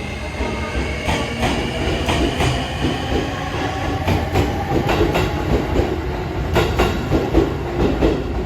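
E653-series electric express train running along the track, its wheels clacking over rail joints at a regular rhythm over a steady rumble, with a faint whine that drifts slowly lower.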